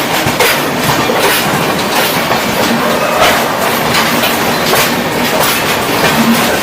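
Passenger train running along the track: a steady rumble with the clickety-clack of wheels over rail joints.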